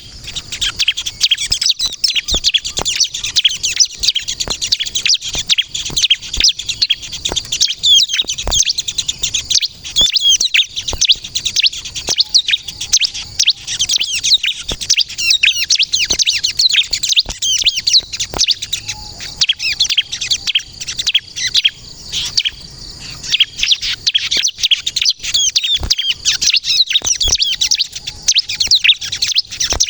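Bar-winged prinia (ciblek kristal) singing a fast, unbroken stream of high, sharp chirps and trills, loud and close, with scattered sharp clicks among them.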